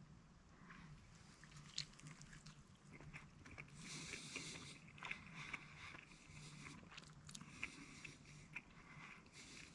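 Faint biting and chewing of a breakfast smash-burger sandwich, scattered small wet clicks and crunches.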